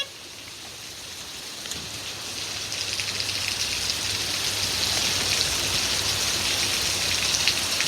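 Windstorm with rain: a rushing hiss of wind and rain that builds over the first few seconds and then holds steady, with low wind rumble on the microphone.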